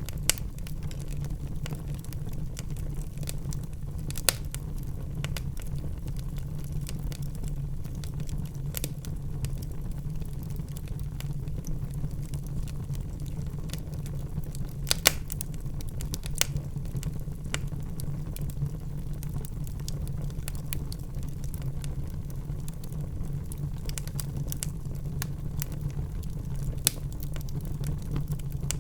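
Wood fire crackling in a fireplace: irregular small clicks and a few louder single pops over a steady low rumble.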